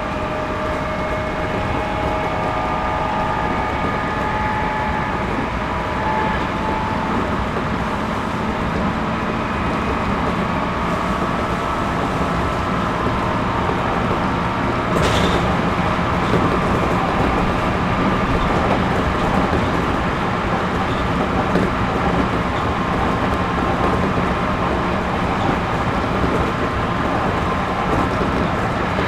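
Interior running noise of a Series 211-5000 electric train on the move: a steady rumble of wheels on rail with faint whining tones in the first few seconds. A short sharp noise comes about halfway through.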